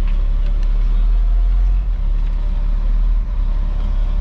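Tow truck's engine running while driving, a steady low rumble.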